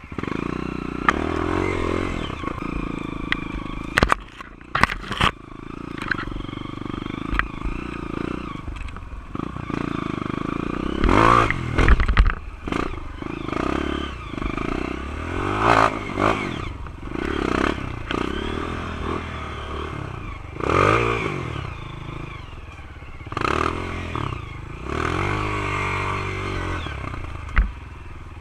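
Honda CRF230 dirt bike's single-cylinder four-stroke engine revving up and down in repeated throttle surges as it rides through mud. Sharp knocks and clatter come in a cluster about four to five seconds in.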